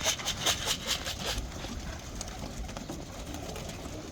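Pigeon wings fluttering in quick beats for about the first second and a half, then fainter.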